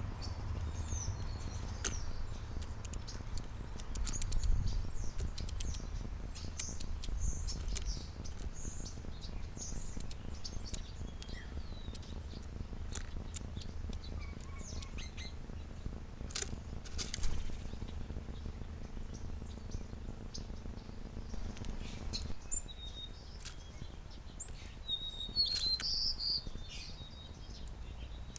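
Small backyard birds chirping in winter: many short, high chirps and calls, scattered and overlapping.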